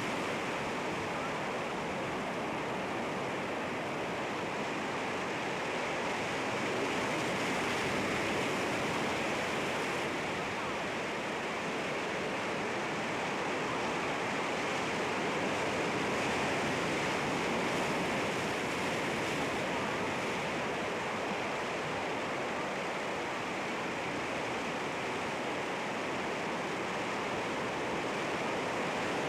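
Sea waves washing against rocks: a continuous rushing surf that swells gently and eases without distinct breaking crashes.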